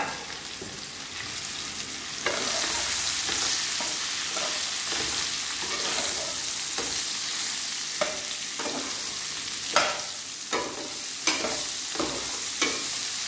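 Whole stuffed okra sizzling in hot mustard oil in a nonstick wok, with a metal spatula stirring and turning the pods. The sizzle grows louder about two seconds in, and the spatula knocks against the pan several times in the second half.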